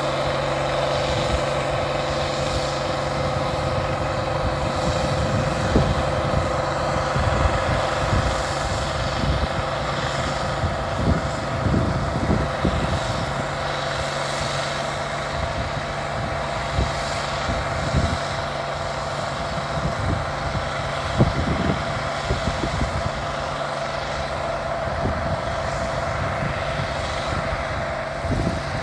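International Harvester 1470 hillside combine running in the field: a steady engine drone with several steady tones from the machine, and irregular low knocks and rattles every few seconds.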